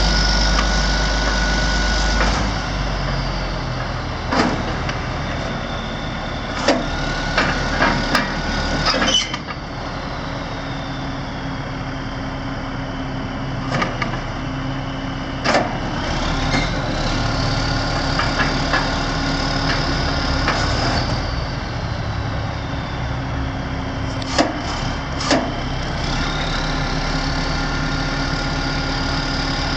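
Kenworth T300 truck's diesel engine running steadily, its pitch sliding slowly down and back up twice, with scattered knocks and clicks.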